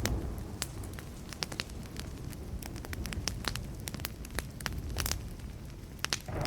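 Burning wood campfire crackling, with many irregular sharp pops and snaps over a steady low rumble.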